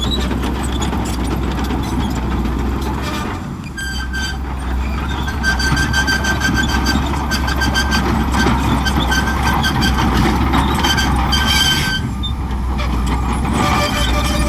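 Bulldozer's diesel engine running steadily, louder from about four seconds in, with a high tone repeating in short even pulses until near the end.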